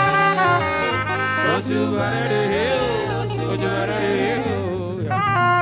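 Live gospel music with a saxophone lead playing a melody with held notes and pitch slides over a band's bass line.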